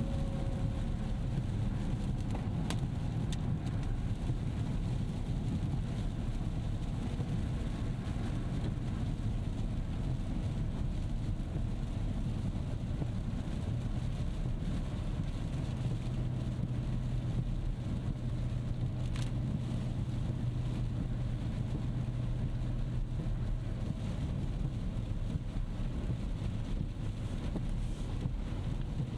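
Rolls-Royce Ghost Series II driving on a wet road: steady low road and tyre rumble, with a low hum that settles into a steady tone about halfway through. A couple of brief ticks come through.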